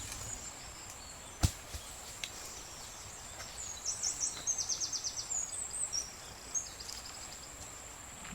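Outdoor rural ambience: a steady high-pitched insect drone, with a bird calling in rapid chirping trills from about three and a half to seven seconds in. A single sharp knock sounds about a second and a half in.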